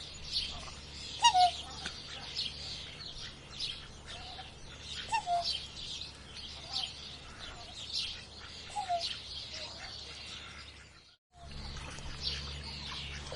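Birds chirping busily in many short high notes, with short lower calls every second or two; the sound cuts out briefly near the end, then resumes.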